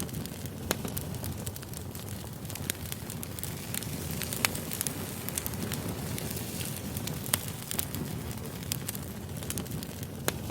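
Campfire burning, with a steady low rush from the flames and frequent sharp crackles and pops at irregular intervals.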